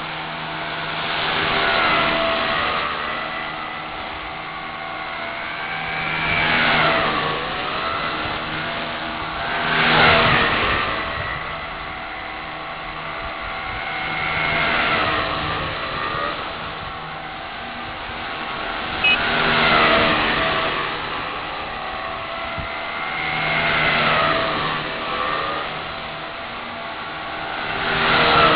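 Align T-Rex 250 SE micro electric RC helicopter flying, its brushless motor whine and rotor buzz steady underneath, swelling louder and sweeping up and down in pitch about every four to five seconds as it passes back and forth or changes throttle.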